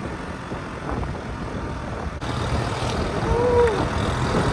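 Honda C70's small single-cylinder four-stroke engine running as the bike is ridden along the road, with wind noise on the microphone. The engine gets somewhat louder a little after two seconds in.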